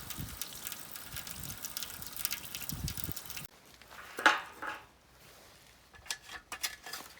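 Food sizzling and crackling on a grill, which stops abruptly about three and a half seconds in; then one sharp clatter of utensils and a few light clicks near the end.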